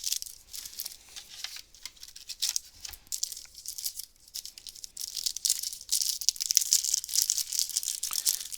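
Crinkling and rustling of a trading-card booster pack wrapper and cards being handled, a dense crackle with small clicks that grows louder and busier about halfway through.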